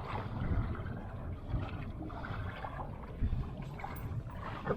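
Wind rumbling on the microphone aboard a small open boat, with a few light knocks.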